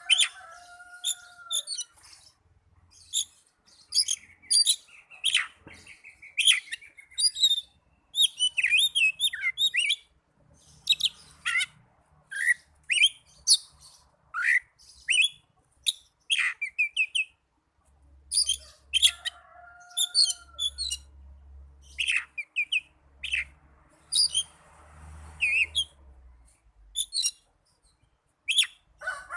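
Oriental magpie-robin (kacer) singing a long, varied song of short chirps, trills and whistles in quick succession, with a lower drawn-out whistle at the start and again about two-thirds through.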